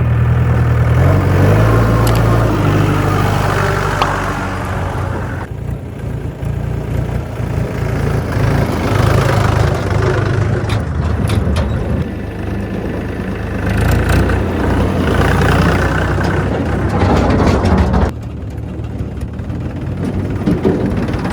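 Heavy diesel machinery working: the engines of a backhoe loader and tractors running, the note rising and falling with load, with a few sharp knocks. The sound changes abruptly several times.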